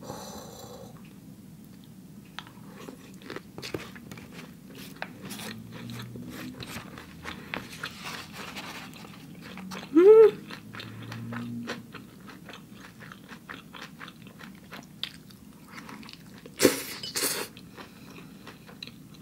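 Close-miked chewing of a mouthful of rice vermicelli noodles with a fried piece, with many small wet mouth clicks. There is a short hummed 'mm' about ten seconds in, and a couple of louder mouth noises near the end.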